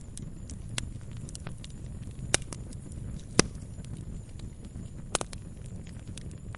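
Wood fire crackling in a fireplace: a steady low rumble of burning with sharp, irregular pops and snaps, two of the loudest a little before and after the middle.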